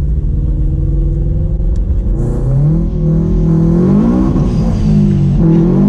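Car engine accelerating hard: the revs climb for about two seconds, drop briefly at a gear change about four seconds in, and climb again near the end.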